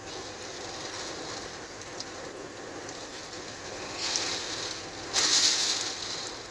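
Wind-driven heavy rain of a severe thunderstorm, a steady rushing hiss. Two louder surges come about four and five seconds in, the second the loudest and lasting about a second.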